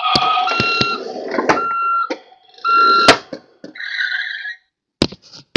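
Road Rippers toy police car's electronic sound effects: a steady beeping tone about once a second, like a reversing beeper, with sharp plastic clicks and knocks from the toy being handled and its buttons pressed.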